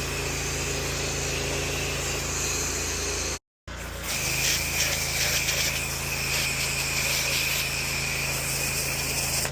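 Pressure washer's engine running steadily under the hiss of the spray. The sound drops out for a split second about a third of the way through, then carries on.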